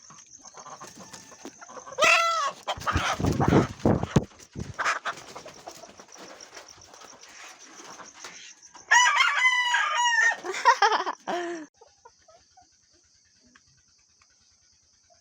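Chicken calling loudly in two bouts, one about two seconds in and another about nine seconds in, each lasting two to three seconds. A steady high chirring of night insects runs underneath.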